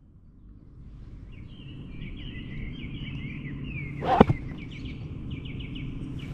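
Birds singing outdoors: repeated chirps and a quick trill over a steady low rumble, fading in at the start. One sharp knock about four seconds in is the loudest sound.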